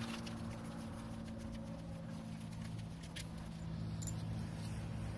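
Faint, scattered light clicks of metal tools and engine parts being handled, over a steady low hum.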